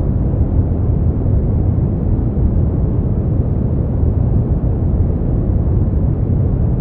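Brown noise: a steady, deep, even hiss, heaviest in the low rumble and rolling off toward the top, with no changes or events.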